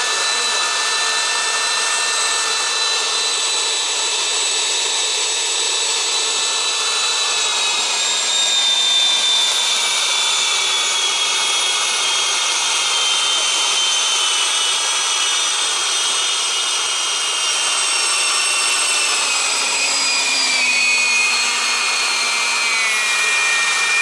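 Electronic jet-turbine sound simulator for a model aircraft, playing a steady high turbine whine over a hiss. The pitch of the whine slowly falls from about a third of the way in, dropping a little further near the end.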